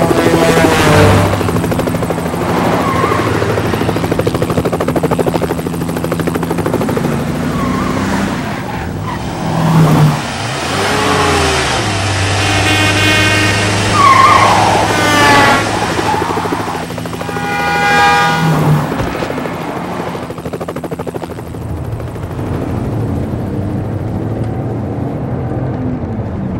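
BMW X5 3.0i's straight-six engine running hard as the SUV is driven fast, its pitch stepping down and climbing again several times as it changes gear. Higher whining tones ride over it in the middle.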